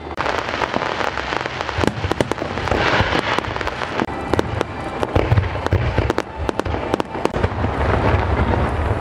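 Aerial fireworks going off in quick succession: dense crackling with many sharp bangs and deep rumbling booms.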